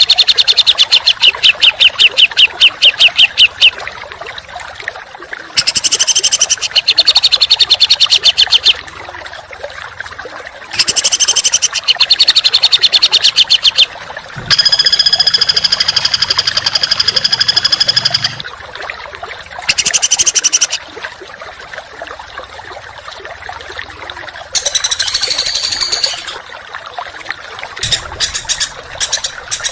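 Small songbird singing harsh, rapid-fire 'tembakan' phrases: bursts of very fast repeated high notes, each one to four seconds long, broken by short pauses. A longer, steadier buzzy call comes about halfway through.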